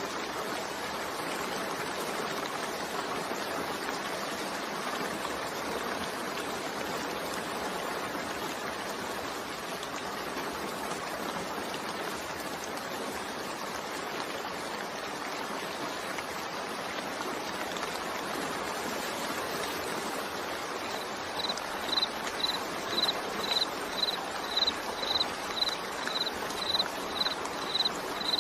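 Steady rain falling, an even hiss. About three-quarters of the way through, a series of short, high-pitched beeps starts, about two a second.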